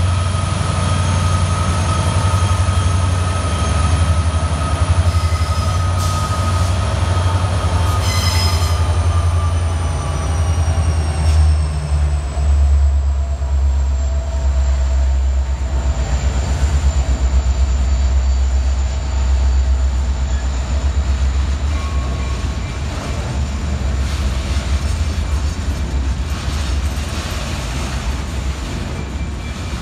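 Two CN SD75I locomotives' EMD 16-710 two-stroke V16 diesels rumble past close by. For the first dozen seconds or so, a thin high wheel squeal slides slowly down in pitch. After that the freight cars roll past with a steady rumble and clickety-clack from the wheels over the rail joints.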